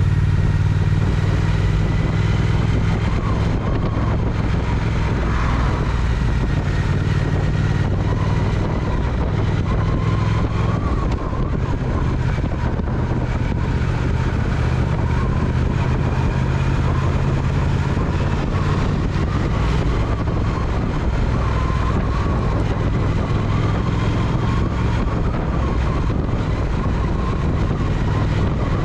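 Triumph Speed Twin parallel-twin motorcycle engine running steadily at cruising speed under an even rush of road and wind noise.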